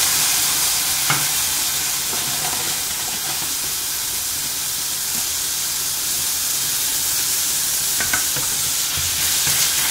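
Chopped vegetables and crushed tomato sizzling in a stainless steel saucepan over high heat, a steady hiss; near the end a wooden spoon stirs them with a light knock against the pot.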